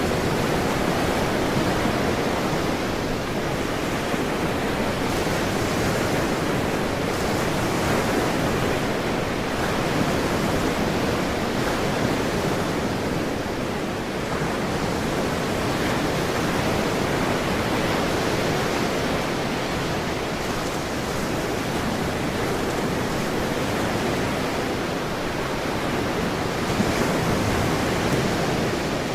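Ocean waves washing onto a shore, a steady rushing wash that swells and eases gently.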